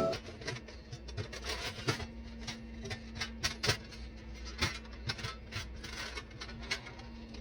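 Scattered light clicks and taps of small hard objects being handled, over a faint steady hum.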